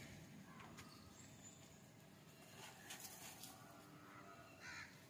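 Near silence, with a few faint bird calls and some light knocks.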